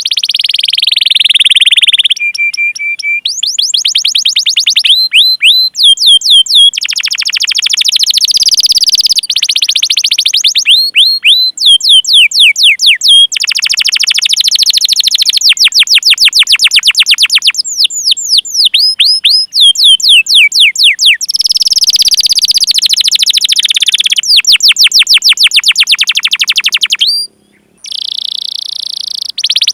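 Domestic canary singing loudly: runs of sharp, quickly falling 'cuit cuit' chirps alternate with long, fast rolling trills (ngerol), with a short pause near the end.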